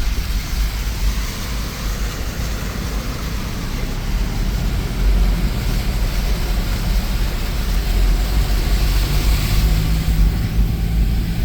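4x4 vehicle driving off-road: a heavy low rumble under a steady rushing noise, with an engine note coming in near the end.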